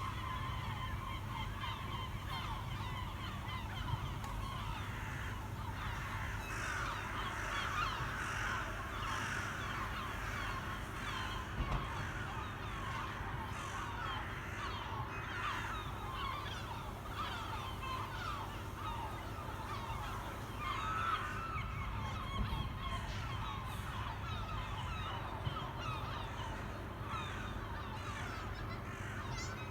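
A large flock of birds calling all at once, a dense unbroken chorus of many short overlapping calls.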